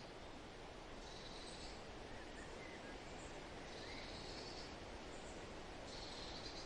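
Forest ambience: a steady rustling hiss like wind in leaves, with a small bird giving a high, buzzy trill three times, about two and a half seconds apart, and a few faint short chirps between.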